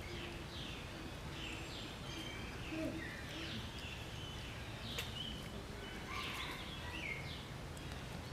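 Birds chirping: many short, high calls that slide downward, repeated and overlapping, over a steady low background rumble. A single sharp click about five seconds in.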